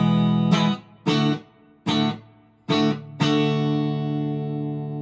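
PRS SE McCarty 594 electric guitar in the middle pickup position with both humbuckers coil-split, played through a Vox AC10 amp: several short strummed chords, each cut off quickly, then a last chord left ringing and slowly fading from about three seconds in.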